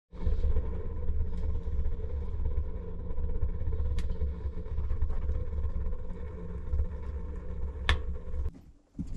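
Wood stove burning hard after a fresh log, with a steady low rumble and two sharp wood crackles. The sound cuts off near the end.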